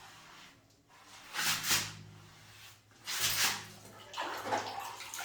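Wet rag wiping fresh white cement off a tiled floor, in three swishing strokes about a second or so apart.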